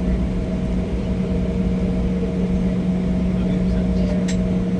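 Steady cabin noise inside an Embraer E175 airliner: a low rumble with a constant hum from the aircraft's engines and air systems, and a single sharp click about four seconds in.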